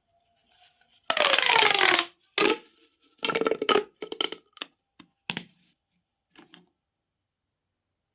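Plastic pop tube fidget toys being stretched and squeezed, giving a loud ribbed rasp with a falling pitch about a second in, then a string of shorter rasps and clicks.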